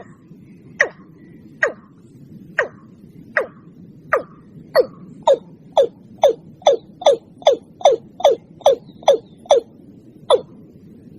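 Watercock calling: a series of short, sharp notes, each dropping quickly in pitch, that speed up to about two or three a second and then slow again near the end, over a steady low hiss.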